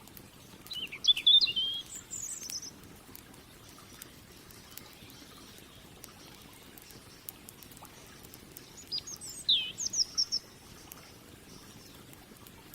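A songbird sings two short phrases of quick, warbling notes that glide up and down, one about a second in and one after about nine seconds. Underneath runs a faint, steady crackle of small clicks from a burning wood fire.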